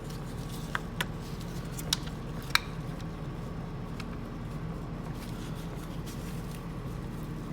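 Four light, sharp metallic clicks from transmission parts being handled and fitted by hand, the last the loudest, within the first three seconds, over a steady low hum.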